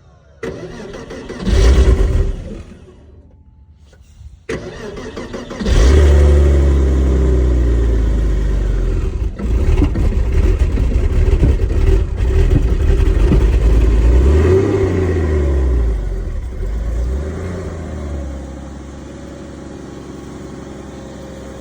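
2001 Porsche Boxster's flat-six being started cold: it flares up briefly about two seconds in and falls away, then catches about six seconds in and runs at a high, loud cold-start idle with the pitch wavering and rising once, before settling to a lower, quieter idle near the end.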